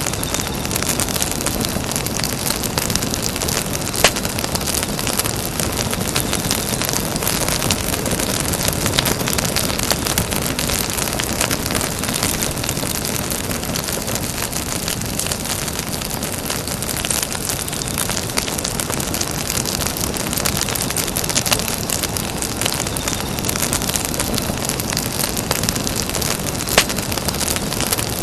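Campfire burning: a steady rushing hiss of the flames with constant small crackles, and a sharp pop from the wood about four seconds in and again near the end.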